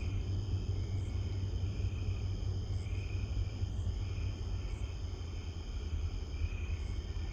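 Low, steady rumble of the Kiamichi Railroad's EMD SD40-series diesel locomotives approaching. Crickets and other insects chirp throughout, one chirp about once a second over a steady high trill.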